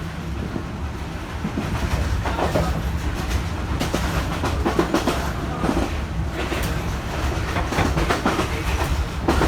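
Passenger train running along the track: a steady low rumble with irregular clacks and rattles of the wheels and carriage.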